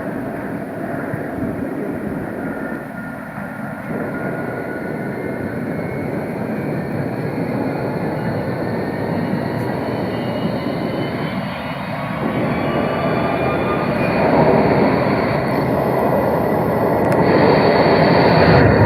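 Tram running, a steady rumble with a faint whine that grows louder over the last few seconds as it comes closer.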